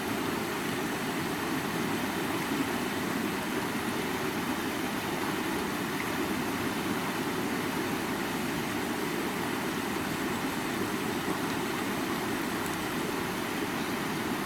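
River water flowing: a steady, unbroken rushing.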